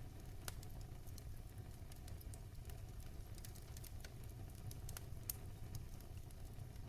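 Wood fire crackling in a fireplace: irregular sharp pops and snaps over a faint, steady low rumble of the flames.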